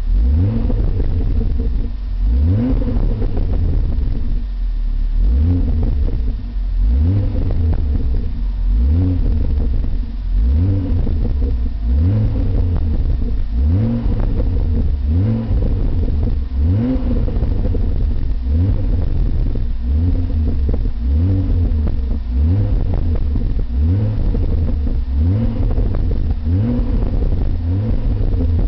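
Car engine revved over and over through an aftermarket Milltek exhaust, likely on a Ford Focus ST: short throttle blips about once a second, each pitch rising quickly and then dropping back.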